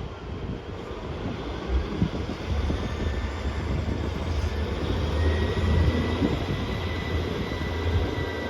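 Diesel passenger train at the station, its engine's low drone growing louder about two and a half seconds in and then holding steady.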